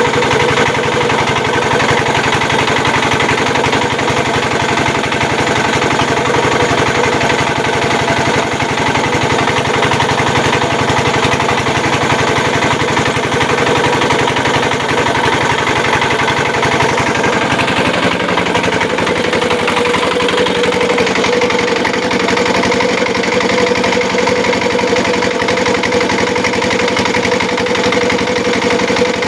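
Engine of a home-built gambir-leaf grinding machine running steadily. A little past halfway its pitch drops slightly and then holds.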